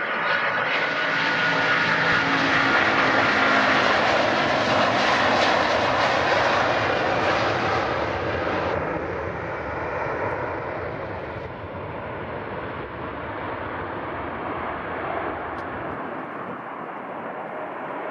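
Airliner engines passing: a loud roar that builds to a peak a few seconds in and then slowly fades away, with a thin steady whine in the first few seconds.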